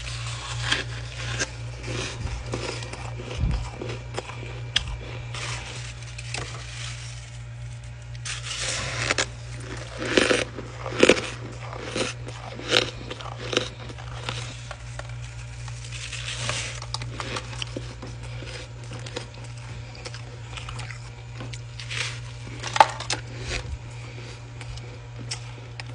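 Ice being bitten and chewed, with irregular crunches that cluster about a third of the way in and again near the end, over a steady low hum.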